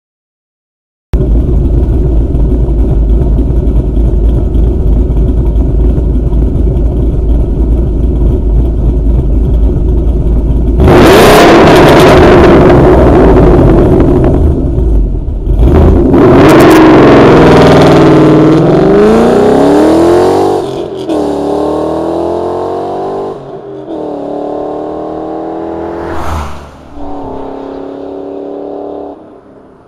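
2013 Mustang GT 5.0 V8 through JBA longtube headers, off-road H-pipe, resonator delete and GT500 mufflers: idling with a steady low rumble, then revving hard about ten seconds in. It then accelerates away through several gear changes, each pull rising in pitch and fading.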